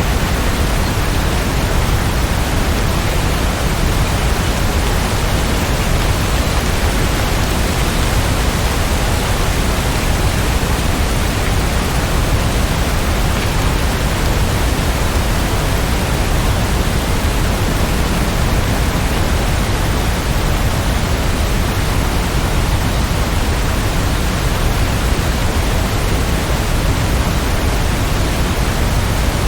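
Steady, even rain with an unbroken hiss that is heaviest in the bass; no single drops, thunder or other events stand out.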